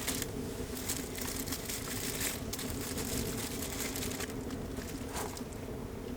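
Crinkling, rustling noise of something being handled, over the first two and a half seconds and again briefly near the end, over a steady low hum.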